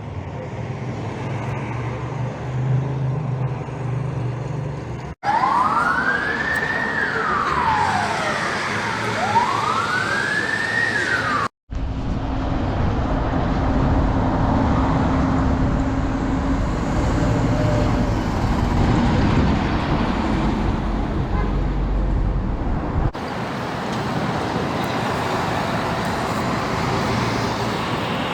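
A fire engine siren in wail mode sounds about five seconds in, giving two slow rising-and-falling sweeps before cutting off abruptly. It sits between stretches of steady engine and road noise, and the sound changes suddenly at each edit.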